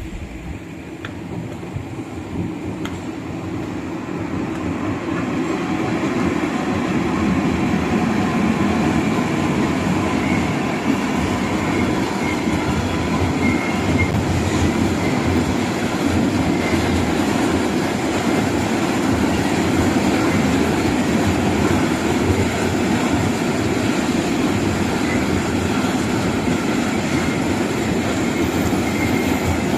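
Freight train of railway tank wagons rolling past on the track, a continuous rumble of steel wheels on rail that builds over the first several seconds and then holds steady.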